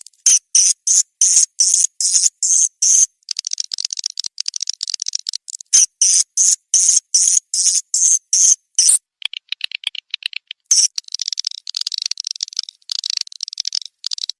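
Recorded swiftlet calls used as a lure sound for a swiftlet house: high-pitched, clicky chirps repeating about three a second, broken by denser buzzing twitters a few seconds in and again over the last third.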